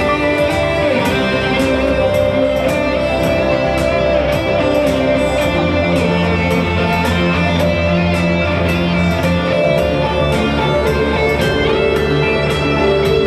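A live band playing a song, led by guitar over a steady beat.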